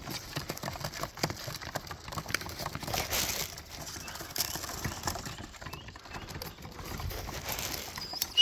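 Outdoor ambience with scattered light taps and clicks, a brief rushing sound about three seconds in, and a short high whistle-like tone at the very end.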